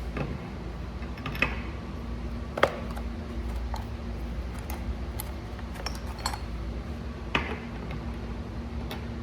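Scattered light clicks and clinks of small metal parts being handled, a few seconds apart, over a steady low hum.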